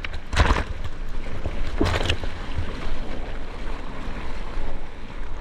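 Sea water sloshing and splashing close to a GoPro, with wind buffeting the microphone and a couple of louder splashes.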